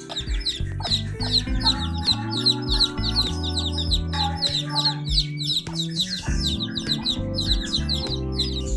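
Chicks peeping, many short falling chirps several a second, over background music with held low notes.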